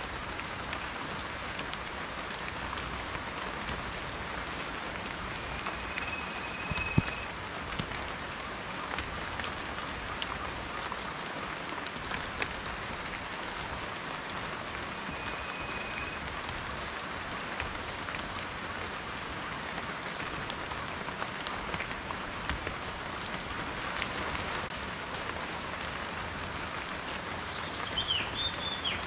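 Steady rain falling, with individual drops tapping close by and one louder tap about seven seconds in. A few short, high whistles sound now and then over the rain.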